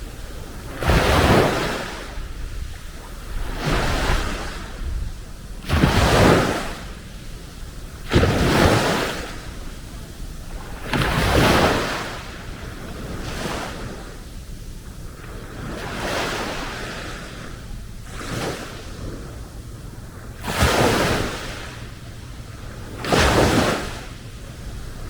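Small waves breaking and washing up on a beach, a surge about every two to three seconds over a steady hiss of surf.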